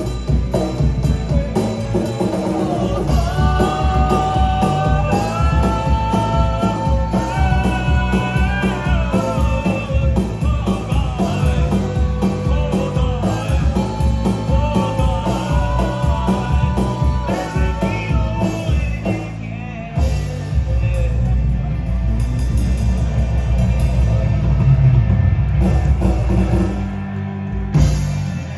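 Live rock band playing a song, a melody line over steady bass and drums; the music stops near the end.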